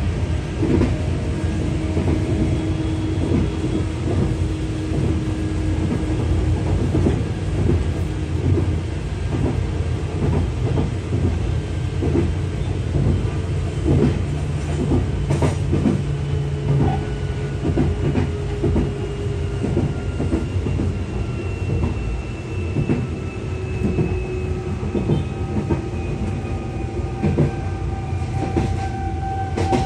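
Tokyu 8500-series electric commuter train running along the track, heard from inside the cab: a steady low rumble with repeated clacks of the wheels over the rails, and faint motor whines that slowly slide in pitch.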